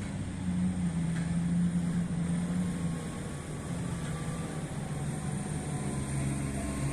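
Heavy mining machine's diesel engine running steadily, its note shifting a little up and down.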